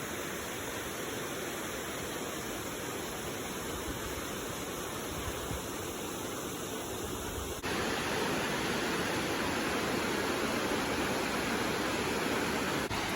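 Steady rush of falling water from the creek cascades below Amicalola Falls. It gets slightly louder about two-thirds of the way through.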